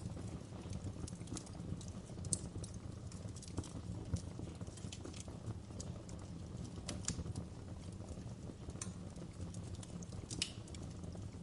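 Wood fire crackling in a fireplace: irregular sharp pops and snaps over a steady low rumble, with a few louder snaps standing out.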